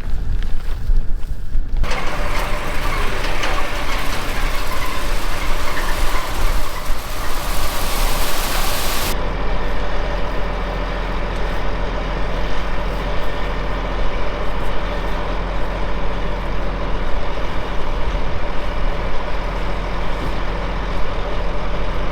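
Heavy diesel engine running steadily. A loud hiss rides over it for about seven seconds and cuts off suddenly, leaving the engine's even hum.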